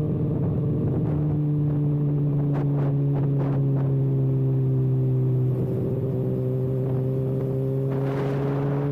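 Kawasaki ZX-6R's inline-four engine running without its exhaust canister, holding steady revs while riding. A little past the middle the note breaks briefly, then the revs climb slowly to the end.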